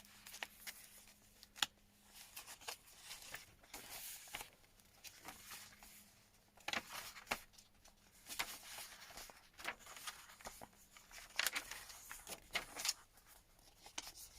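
Paper pages, cards and pockets of a handmade junk journal being handled and turned: soft, scattered rustles and light taps.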